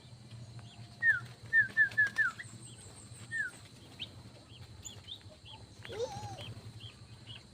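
Caged aviary birds calling: a quick run of five sharp, falling whistled notes about a second in, then a single one, with scattered higher chirps from other birds.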